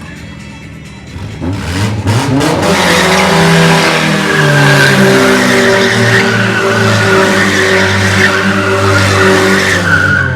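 Stunt car's engine revving up, then running hard at high revs while its tyres squeal and skid for about seven seconds, cutting off sharply near the end.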